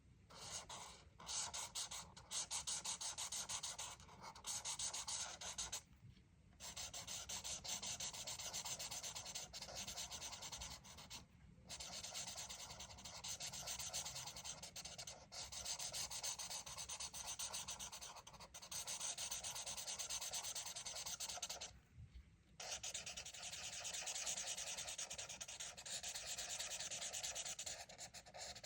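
Coloring on paper: a coloring tool rubbing across a page in fast, steady back-and-forth strokes, with brief pauses about six, eleven and twenty-two seconds in.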